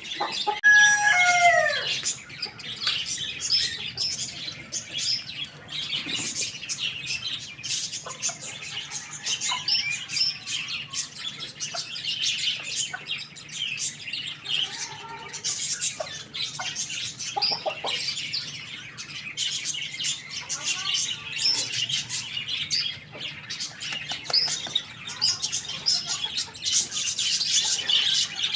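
Many birds chirping continuously in a dense chatter, with one louder call that falls in pitch about a second in.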